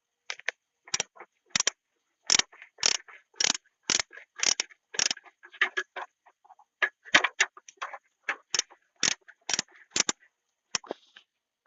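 An irregular series of sharp knocks and clicks, roughly two a second, with a short pause about six seconds in.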